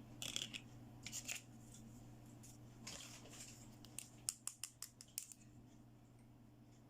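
Small plastic toy pieces handled at close range: a few soft rustles, then a quick run of about seven light, sharp clicks in the middle, over a faint steady hum.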